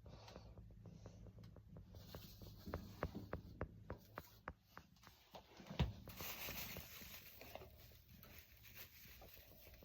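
Faint rustling and light clicks, with one sharper knock a little before six seconds in, followed by a soft hiss.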